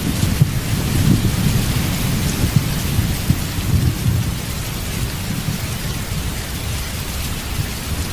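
Steady rain with a low rumble of thunder that slowly fades away.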